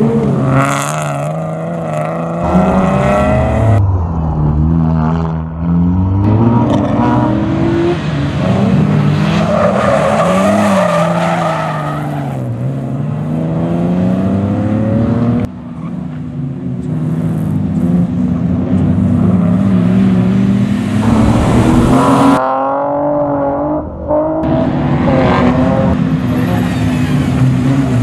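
Rally car engines revving hard, their pitch climbing and dropping again and again through gear changes, with tyre squeal.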